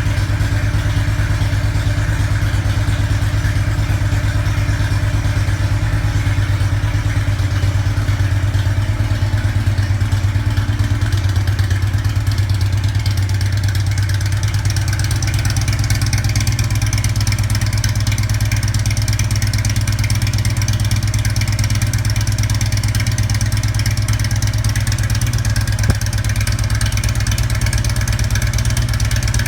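Harley-Davidson FLHT V-twin engine idling steadily through Radii 3.5-inch slip-on mufflers, Rinehart-style knock-offs, with a loud, deep, pulsing exhaust note.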